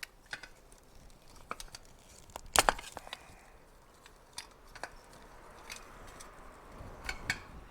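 Hand tools and wiring being handled at a workbench: scattered small clicks and taps, the loudest a sharp double click about two and a half seconds in, and another pair near the end.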